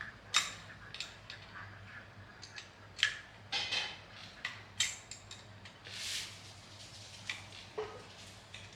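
Scattered light metallic clicks, clinks and short clatters of tools and metal parts being handled during a repair, at an uneven pace, over a faint steady hum.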